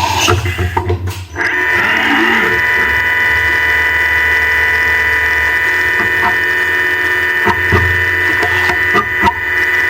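High-speed CNC milling machine cutting: a choppy, uneven stretch gives way, about a second and a half in, to a steady high whine from the spindle and cutter, with short clicks now and then.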